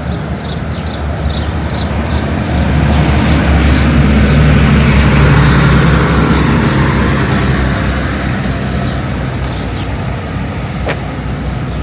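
A road vehicle's engine and tyres approach, pass close by and fade away, loudest in the middle. Small birds chirp in quick repeated notes at the start.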